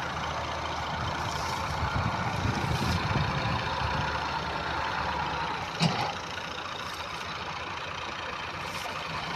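Tractor engine running steadily, with one short knock about six seconds in.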